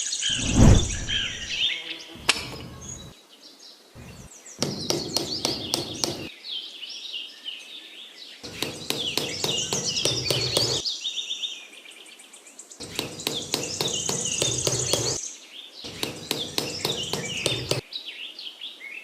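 Birds chirping, with several stretches of rapid clicking and tapping, each about two seconds long.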